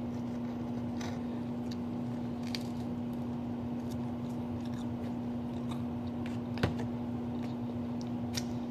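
Close-up chewing of garlic bread dipped in marinara sauce, with small wet mouth clicks and smacks. A steady low electrical hum sits underneath, and a single sharp knock comes about two-thirds of the way through.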